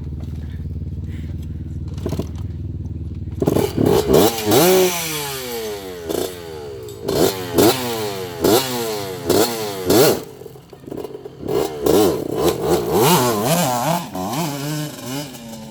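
An off-road vehicle's engine running low and steady, then from about three seconds in revving hard again and again, its pitch climbing and falling back every second or so, with some clatter mixed in.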